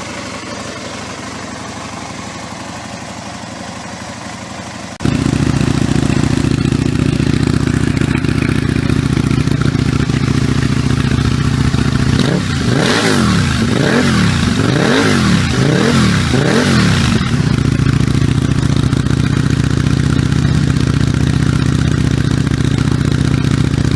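Aprilia RSV Mille's 998 cc V-twin idling, with a sudden step up in loudness about five seconds in. It is then revved in a quick run of throttle blips, each rising and falling in pitch, before settling back to a steady idle.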